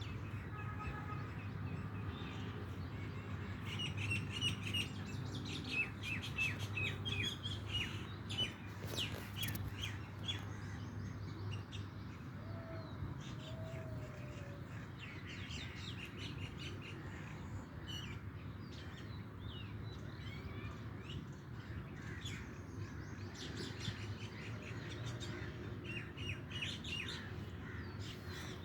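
Several songbirds chirping, with many short quick calls overlapping throughout and a couple of lower whistled notes about halfway. A steady low rumble runs underneath.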